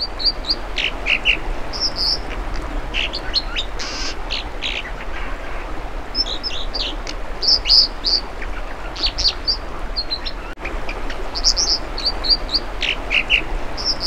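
American dipper singing: phrases of short, high notes, each note repeated a few times, going on through the whole stretch over a steady background rush.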